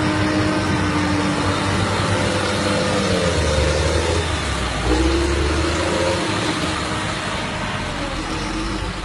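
Heavy vehicle engine running under load. Its pitch sags and rises a few times, with a rise about five seconds in as it revs.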